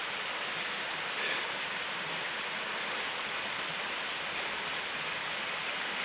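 Steady rush of a waterfall and mountain stream pouring into a pool, an even noise without pauses.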